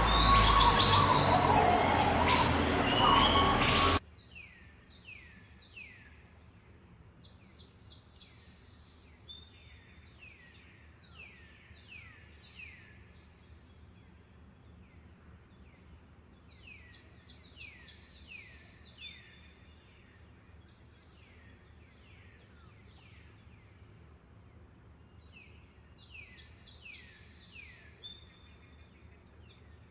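Dense, loud forest birdsong that cuts off abruptly about four seconds in. Then a quieter scene: a steady high insect drone and a songbird singing quick series of falling notes, in several bursts a few seconds apart.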